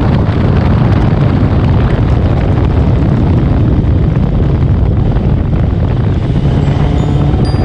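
Honda CBR650R's inline-four engine running steadily at road speed through a loud aftermarket JP exhaust, mixed with heavy wind noise on the microphone. Near the end, a few chiming mallet-like music notes come in.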